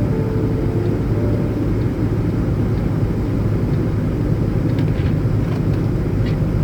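Steady low rumble of engine and road noise inside a truck cab while it drives along. A few short descending tones sound right at the start.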